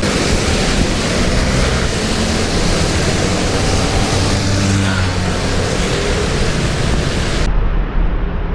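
Street traffic noise: a steady rush with a low engine hum. About seven and a half seconds in, the sound changes abruptly and the high end drops away.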